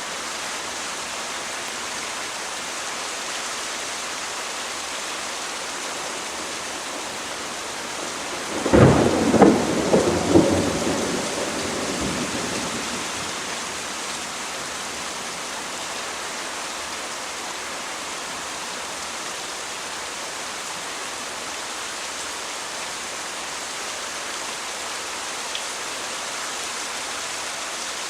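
Steady heavy rain with a thunderclap about nine seconds in: a few sharp cracks close together, then a rumble that dies away over the next few seconds.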